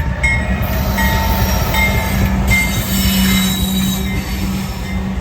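Train rolling past with a heavy steady rumble, its steel wheels squealing on the rails in short high-pitched bursts.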